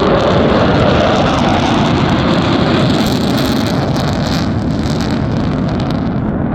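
Jet noise from a fighter jet in flight, a loud steady rush that slowly fades.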